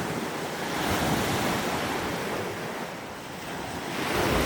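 Waves washing in, a steady rushing that swells louder about a second in and again near the end.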